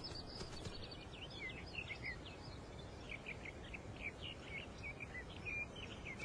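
Small birds chirping and singing in many short, quick notes over a faint, steady background hiss.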